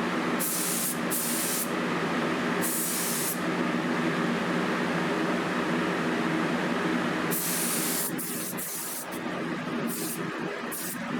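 Compressed-air spray gun hissing steadily over a low, steady hum, turning weaker and on-and-off from about eight seconds in.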